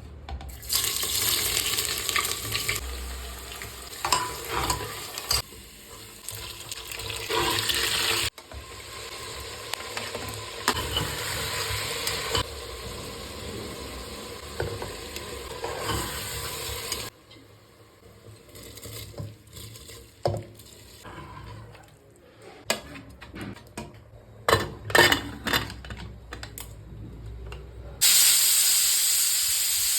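Cooking in a pan: food sizzling in hot oil while being stirred, with spoon scrapes and clinks. The sound comes in several abruptly cut stretches, with a quieter run of clicks and knocks in the middle and a loud, steady sizzle near the end.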